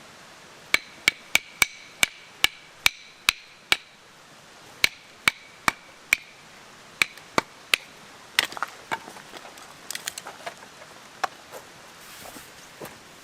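A hammer driving a metal tent peg: runs of sharp strikes, about two to three a second, each with a short metallic ring, in three groups with brief pauses. After about eight seconds come lighter, irregular knocks and clatter.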